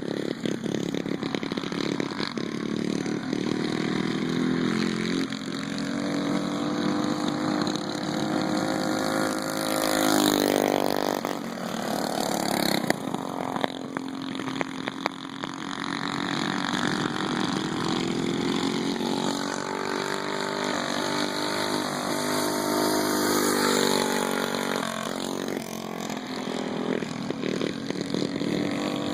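Several small mini bike engines running together in a race, their pitch repeatedly rising and falling as they rev up and ease off.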